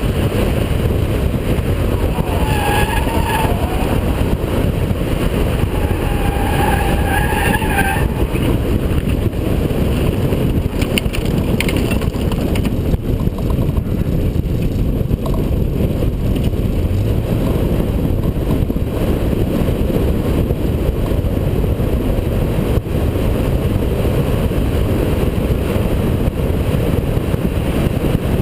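Holden VP Commodore V6 driven hard on a race circuit, its engine running under load with heavy road noise. The tyres squeal through corners twice, about two seconds in and again around six seconds in.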